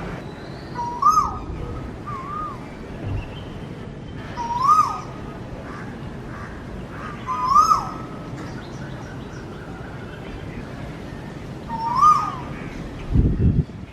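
Asian koel calling: five rising-then-falling whistled notes spaced a few seconds apart, the second one fainter. A brief low rumble comes near the end.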